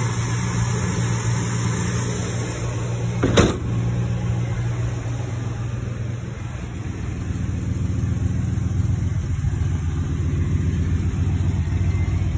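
Engine of a 1970 Oldsmobile Cutlass convertible running steadily, with one sharp click about three and a half seconds in.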